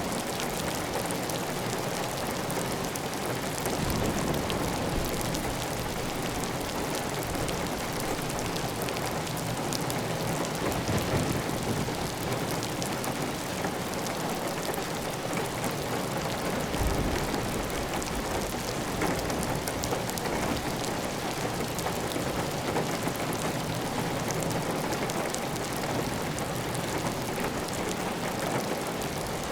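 Steady heavy rain on a clay-tile roof, with water running off the roof edge in an even stream. A few brief low rumbles rise under the rain partway through.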